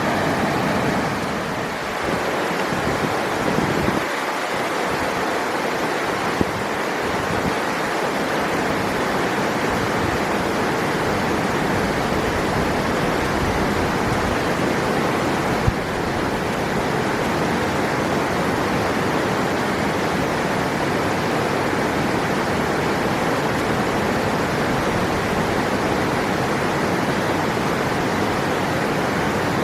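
River water rushing in a steady, even flow, with two brief clicks about six and sixteen seconds in.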